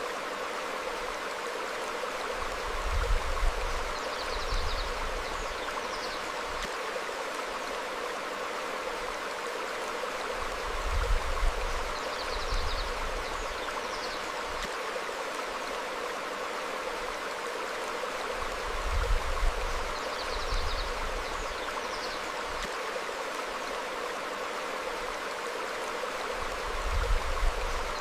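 Stream flowing over rocks, a steady rush of water. A low swell rises about every eight seconds, and faint short bird chirps come in pairs on the same cycle.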